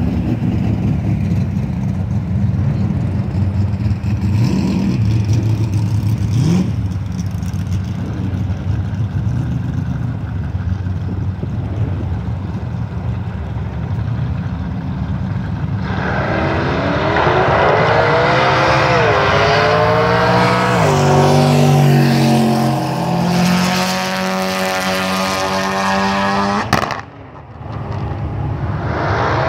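Turbocharged 1.8T four-cylinder of a Mk4 Volkswagen GTI with a 50-trim turbo at a drag strip: a steady low engine drone at the start line, then about 16 seconds in the car launches and accelerates hard, the engine pitch rising and dropping back several times through the gear changes. A sharp click and a brief dip in the sound come near the end.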